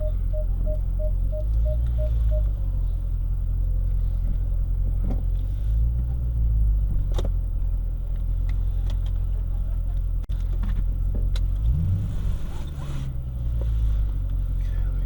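Dodge Challenger Scat Pack's 6.4-litre HEMI V8 running at low speed from inside the cabin, a steady low rumble that swells a few times, with a short rising rev about twelve seconds in. A series of evenly spaced electronic beeps stops about two seconds in, and a few light clicks sound throughout.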